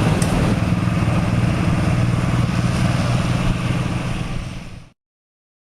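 An engine running steadily with a low hum, fading slightly and then cutting off abruptly near the end.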